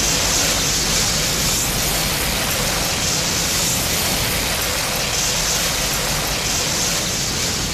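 Steady rushing hiss of noise with a low rumble beneath it, holding an even level throughout.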